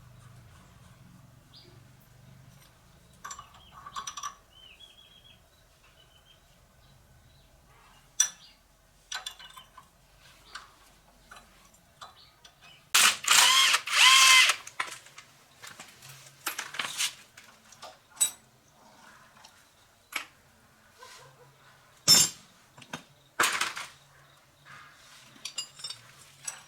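Hand tools clinking and knocking on metal, with a power tool, such as a drill, running in two short bursts of about a second each near the middle.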